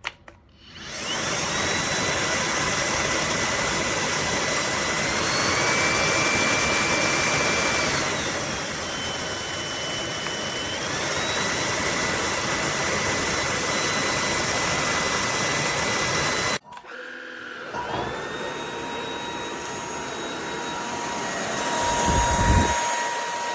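Cordless brushless stick vacuum switching on and running with a steady high whine. Its pitch steps up about five seconds in, drops about eight seconds in and rises again around eleven, as it is switched between power settings. The sound cuts off about two-thirds of the way through and starts again a second later, with a low rumbling near the end.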